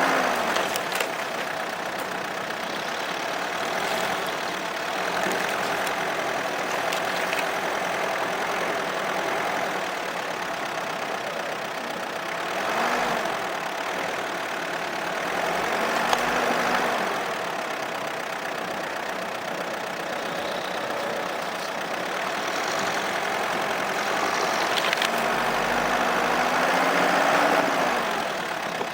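Opel Monterey SUV's engine running while driving, its revs rising and falling a few times over a steady rushing noise.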